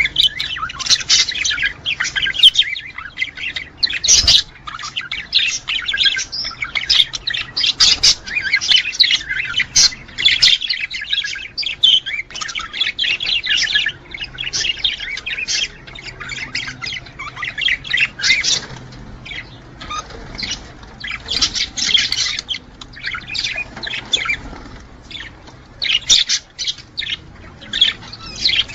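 Budgerigars chattering: a dense, continuous stream of rapid warbles, chirps and squawks, the excited chatter of male budgies in breeding condition. A sharp click sounds about four seconds in.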